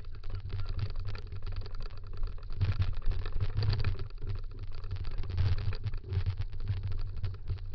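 Dog scooter rolling fast over a dirt trail: a heavy wind rumble on the microphone with the rattle and clatter of the wheels and frame over the ground.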